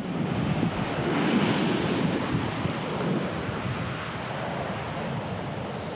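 Atlantic surf washing against a rocky shore, swelling in the first couple of seconds and then easing off, with wind buffeting the microphone.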